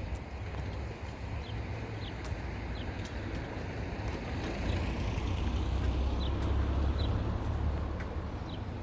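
Outdoor ambience: a low rumble that swells in the middle and eases off near the end, with short, high bird chirps repeating throughout and a few sharp clicks.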